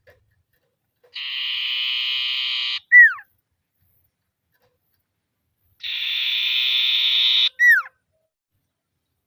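Common iora calling twice: each call is a long rasping trill of about a second and a half, ended by a short whistle that slides sharply downward.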